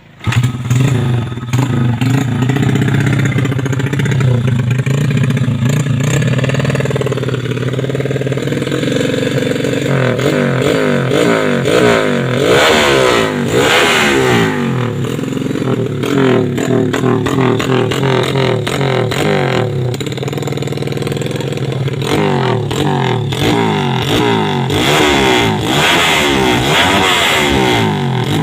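Yamaha Jupiter Z underbone motorcycle's single-cylinder four-stroke engine running through an aftermarket DPJ exhaust. It idles steadily at first, then from about a third of the way in it is revved again and again in quick blips.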